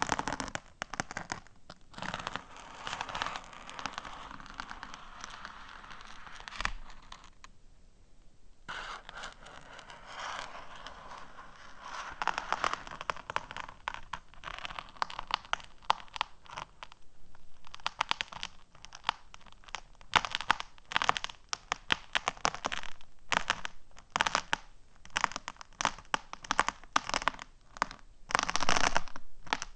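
Fingernails tapping and scratching on small hard objects close to the microphone: rapid clicks mixed with scratchy rustling, with a short lull about eight seconds in and quicker, denser tapping later on.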